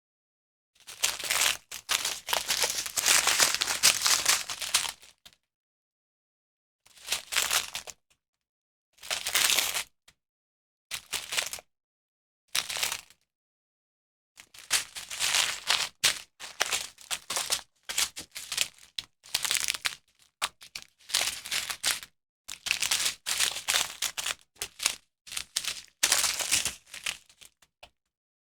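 Small plastic bags of diamond painting drills crinkling as they are handled, in irregular bursts with silent gaps between them.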